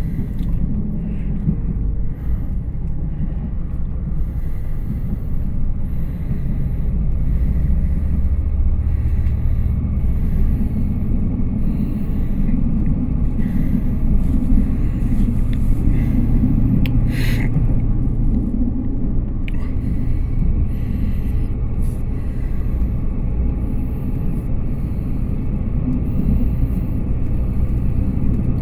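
Steady low rumble inside a passenger train carriage, growing louder about six seconds in, with one brief sharp squeak about seventeen seconds in.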